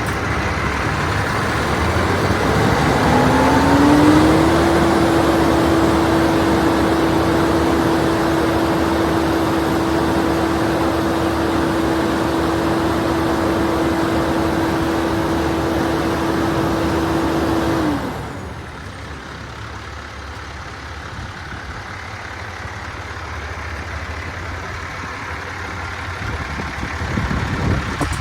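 Vacuum truck running with its vacuum system engaged: a steady tone rises in pitch about three seconds in and then holds over a loud rushing noise. About eighteen seconds in the tone and most of the noise cut off abruptly, leaving a quieter steady engine sound.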